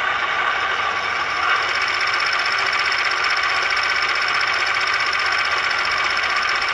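Air-compressor sound effect from the DCC sound decoder in a Hornby OO gauge Class 31 diesel locomotive model, running steadily over the idling engine sound through the model's small speaker.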